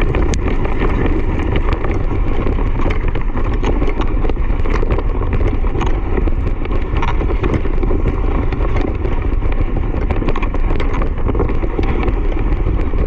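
Loud, steady rumbling noise of fast movement, wind buffeting the microphone, with many small clicks and rattles over it.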